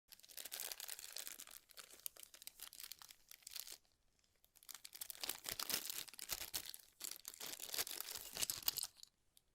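Packaging crinkling and rustling as it is handled, in two long stretches with a short pause about four seconds in.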